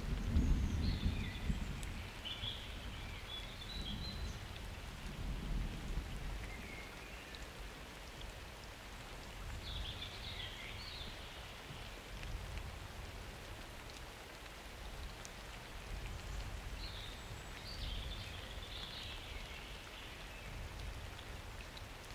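Steady rain falling in a summer thunderstorm, with a low rumble of thunder dying away in the first couple of seconds.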